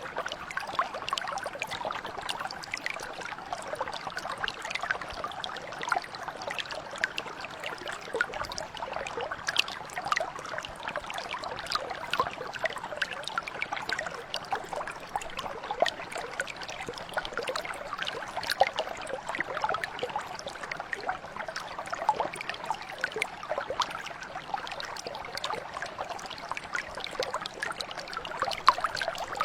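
Shallow stream or mountain brook flowing steadily, with a constant babble of small splashes and trickles.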